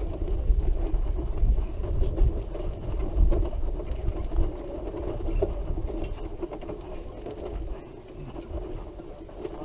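Wheelchair rolling along a bumpy path: a steady hum with a low, uneven rumble and small rattles from the wheels over the rough surface. The rumble eases near the end.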